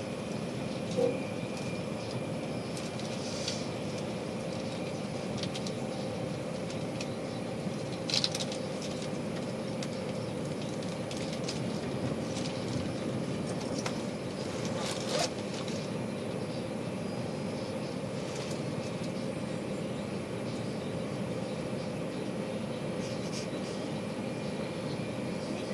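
Inside a moving Tilt Train passenger carriage: a steady running rumble with a faint hum. A few short knocks come about one, eight and fifteen seconds in.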